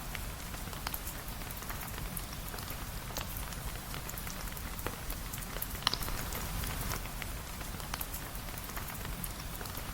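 Steady rain falling, an even hiss with scattered sharp clicks of drops, one louder click about six seconds in.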